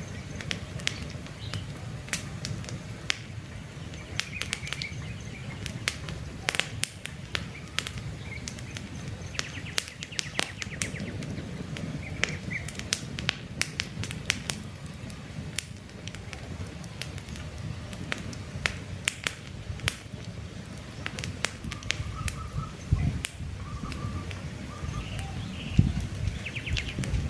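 Wood campfire crackling, with frequent sharp pops and snaps over a low steady rumble of the flames. Birds chirp softly now and then.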